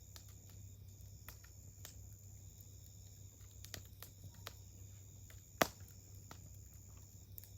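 Wood campfire crackling: scattered sharp pops and snaps, the loudest about five and a half seconds in, over a steady high-pitched drone.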